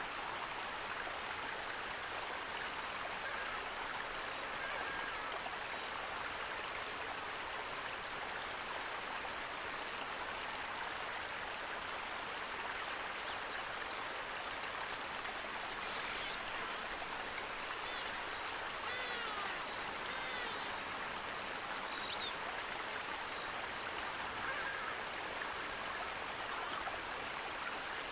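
Running water, a stream rushing steadily, with a few faint bird chirps past the middle.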